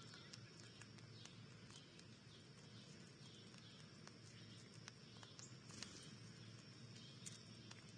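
Quiet outdoor feeder-cam ambience: a faint steady hum with scattered soft ticks and taps at irregular intervals, and a few faint high chirps.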